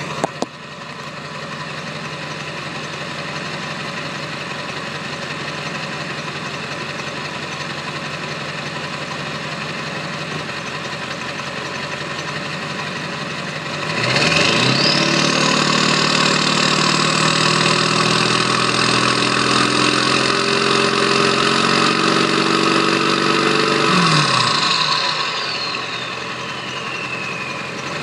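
2002 Ford F-250's 7.3-litre Power Stroke turbo-diesel V8 idling through a 3-inch turbo-back exhaust with no tip. About halfway through it is revved and held for about ten seconds, and the turbocharger whistle rises and stays high. When the throttle is let off, the whistle winds down slowly in a long falling glide as the turbo spools down.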